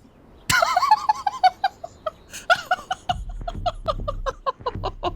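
A person laughing hard in a long, fast run of short, high-pitched "ha" syllables that starts about half a second in.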